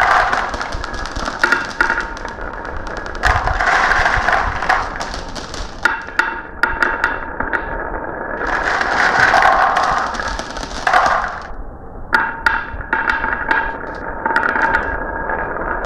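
Marbles running down a marble run, with many sharp clicks and clacks as they hit the track and each other, and stretches of rolling noise lasting a second or two.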